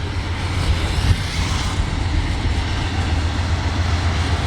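Freight trains passing at low speed: a steady low rumble with a hiss of wheels on rail.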